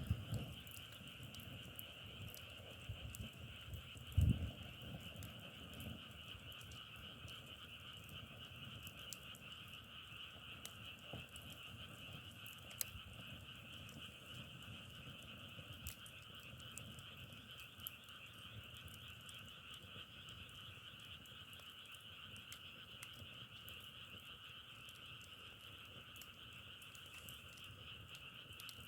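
A dense chorus of frogs calling without pause, a steady trilling wash in two pitch bands, with faint scattered clicks and a single low thump about four seconds in.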